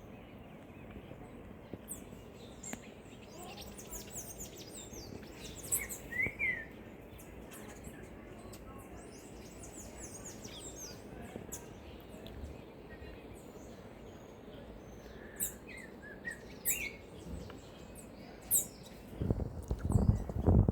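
Small birds chirping: short high calls scattered through, over a steady background hiss. Near the end a loud, rough noise begins.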